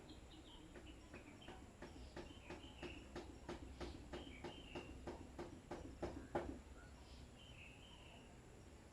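Faint outdoor birdsong: small birds giving short high chirps, over a run of sharp, evenly spaced clicks, about three a second, that stops near the end.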